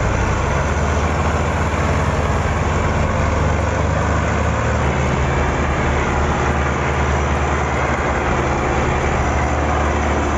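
Heavy vehicle engine running steadily at a constant speed, with a deep even hum and a slight change in pitch about five seconds in.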